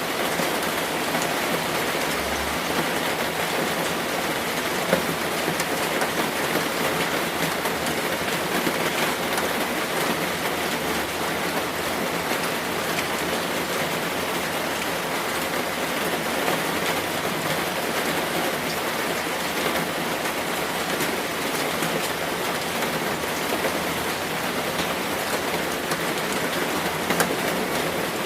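Steady rain falling, a constant even hiss with scattered drops ticking on a surface.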